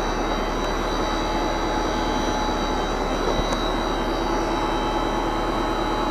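Large Vogelsang rotary lobe pump and its electric drive running steadily at part speed, about 1100 RPM: a very quiet, even mechanical hum with a few constant high whines.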